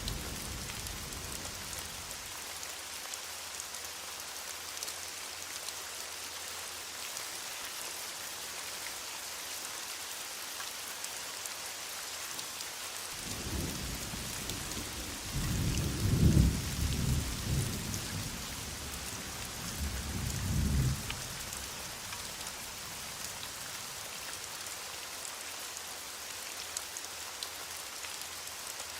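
Heavy rain falling as a steady hiss. A roll of distant thunder rumbles in about halfway through, swells to its loudest a few seconds later and fades out after about eight seconds. The tail of an earlier rumble dies away at the very start.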